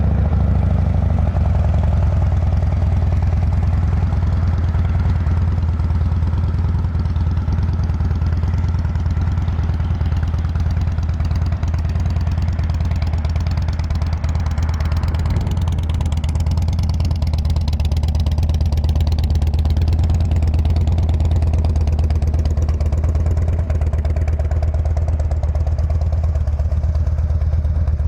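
Harley-Davidson Twin Cam 96 V-twin of a 2007 Dyna Super Glide idling steadily through aftermarket slip-on mufflers, with a deep, even exhaust note.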